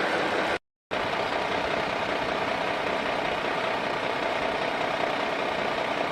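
A motor running steadily with an even, engine-like hum. Under a second in it drops out to silence for about a third of a second, then carries on unchanged.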